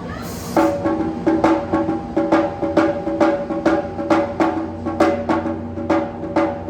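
Japanese taiko drums played in a quick, driving rhythm of sharp strikes, starting about half a second in, over a steady low hum.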